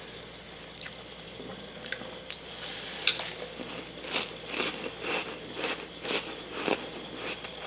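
Freezer frost mixed with humidifier frost being chewed close to the microphone: a run of soft crunching bites starting about two seconds in, then about two a second. A faint steady hum sits underneath.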